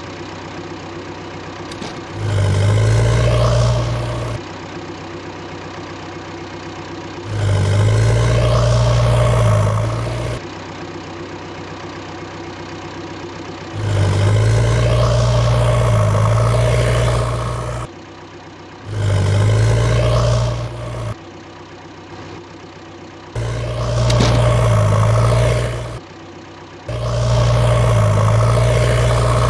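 A heavy vehicle engine idling, with six louder revving stretches of two to four seconds each between quieter idling.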